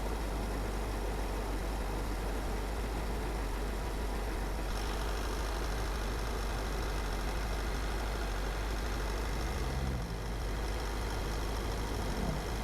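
A car driving along a road: steady tyre and engine rumble with road hiss, the hiss getting a little brighter about five seconds in.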